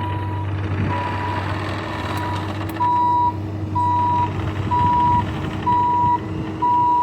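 A machine's backup alarm beeping steadily about once a second over a running diesel engine. The beeps grow louder about three seconds in.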